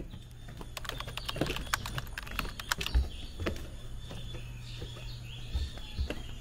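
Birds chirping and singing, the song growing fuller about halfway through, over a steady low hum and scattered sharp clicks.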